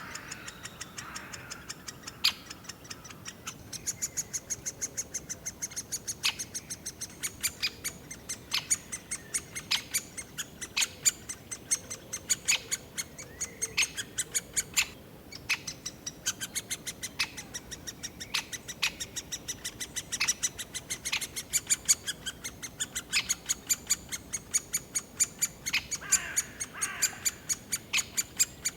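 Great spotted woodpecker nestlings begging from inside the nest hole: an unbroken series of short, sharp, high calls, a few a second, from more than one chick.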